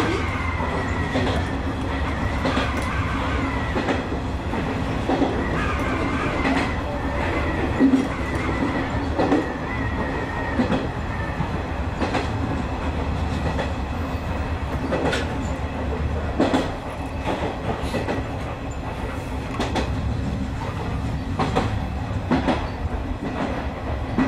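Electric commuter train of the Izu Hakone Railway Sunzu Line running along the track, heard from inside the front car: a steady low rumble with sharp clicks from the wheels over rail joints at irregular intervals. A high whine slowly falls in pitch and fades out about ten seconds in.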